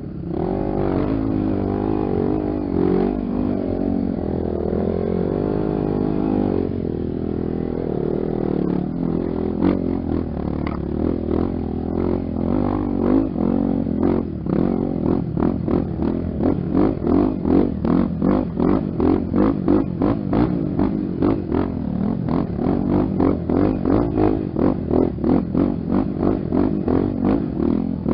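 Honda XR 250 Tornado single-cylinder trail motorcycle engine running under way, its pitch rising and falling with the throttle. About halfway through, the sound turns to a rhythmic pulsing, about two to three beats a second.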